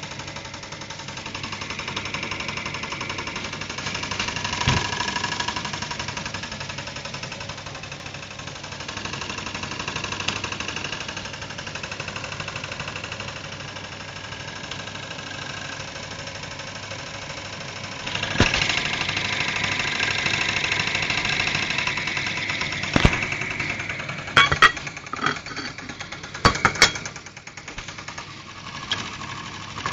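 Steam engine running with a fast, even clatter over a hiss. It grows louder a little past halfway, and several sharp clicks or knocks come near the end.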